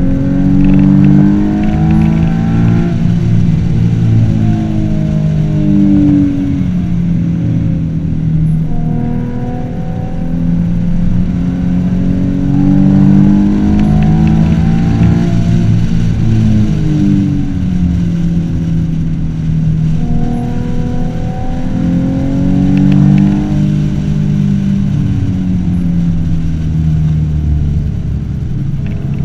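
Ford Mustang 3.7-litre V6 engine under hard acceleration, heard from inside the cabin, its pitch climbing and then falling away several times as the car accelerates, shifts and backs off on a track lap.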